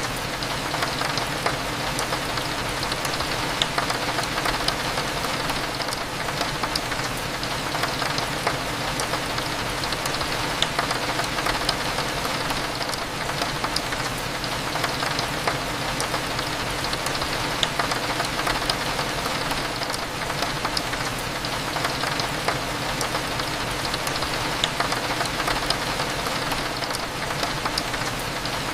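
Steady rain falling, with many small drop ticks as it hits a window, over a faint, constant low hum.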